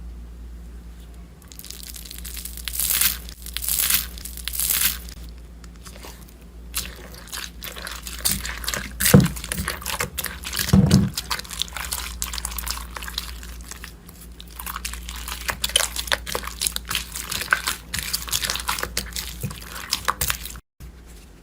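Slime being squeezed and worked by hand, giving irregular crackles and clicks in uneven bursts over a steady low hum.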